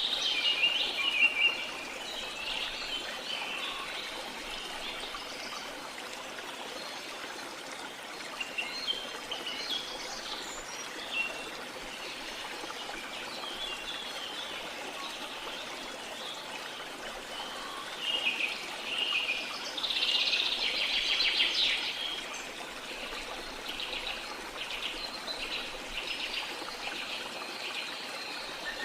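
Steady rush of a waterfall under scattered calls and songs of several birds. The loudest is a fast trill about two-thirds of the way through, followed by a run of short repeated notes near the end.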